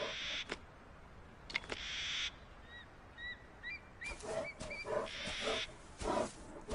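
Birds calling in the wild: a string of short, hooked chirps in the middle, followed by a run of harsher repeated calls. Three brief bursts of hiss come at the start, about two seconds in and about five seconds in.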